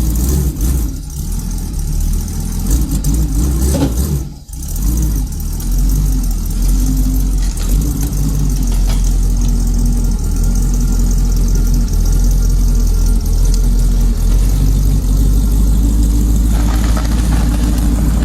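Engine of a twin-turbo VW T3 van running, its pitch wavering up and down as it is revved, with a brief drop in level about four and a half seconds in.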